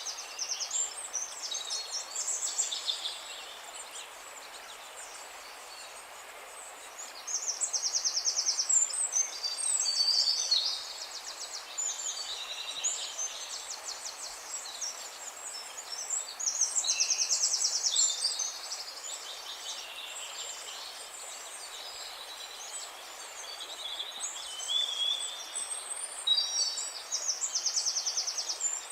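Songbirds singing over a steady background hiss. They give short chirped phrases and rapid trills, and the loudest trilled bursts come several times, each lasting one to two seconds.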